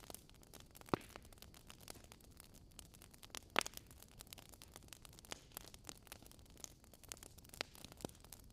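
Fireplace fire crackling: a faint steady hiss dotted with many small crackles, and two louder pops, about a second in and again a few seconds later.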